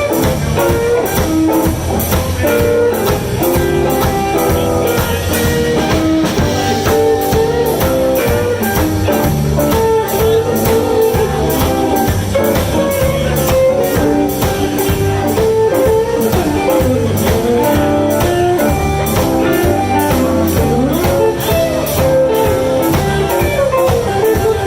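Live blues band playing an instrumental passage: electric guitar over bass and drums, with a steady beat.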